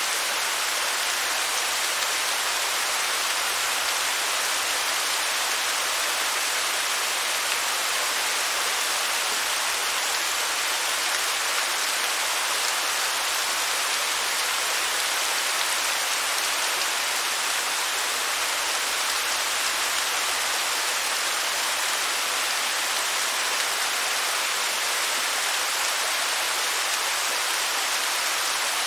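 Waterfall: a steady, unbroken hiss of falling water, bright with little deep rumble.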